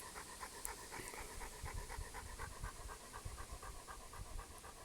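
Dog panting fast and evenly, about five breaths a second, faint, over a few low thuds.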